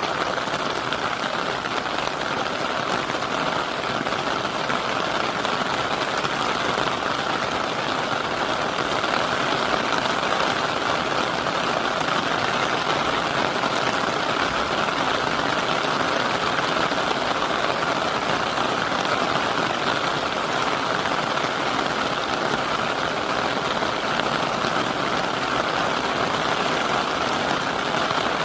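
Heavy typhoon rain pouring down in a steady, unbroken hiss that grows slightly louder over the stretch.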